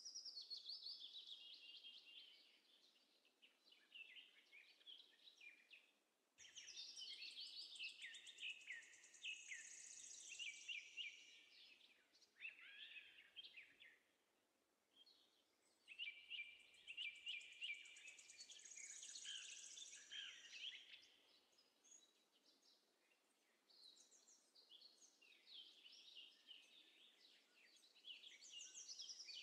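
Faint birdsong: many birds chirping and twittering in quick, high, falling calls. It comes in stretches of a few seconds that start and stop abruptly, with quiet gaps between them.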